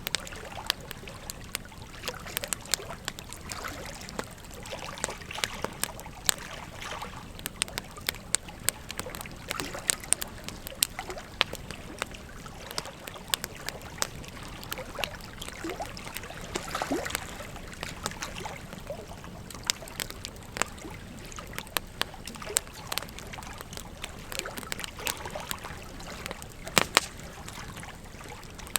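Wood fire crackling, with frequent irregular sharp pops and a pair of louder snaps near the end, over the steady rush of river water.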